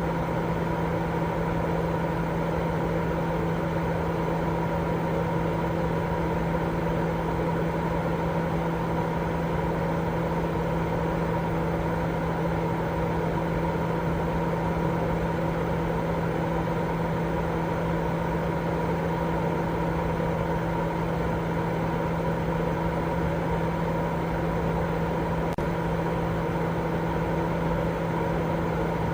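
Steady sleep-aid white noise: an unbroken, even rushing sound, fuller in the low and middle range than a bright hiss, with a low steady hum in it.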